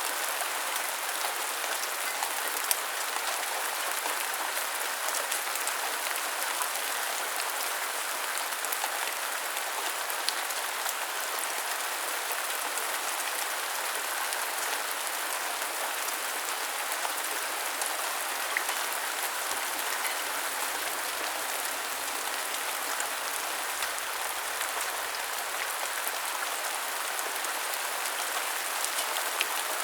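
Steady rain falling, an even hiss with now and then a single louder drop ticking.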